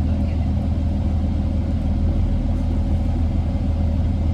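Inside an Orion VII NG diesel-electric hybrid bus: its Cummins ISB diesel engine and BAE hybrid drive run with a steady low rumble and hum, no change in pitch.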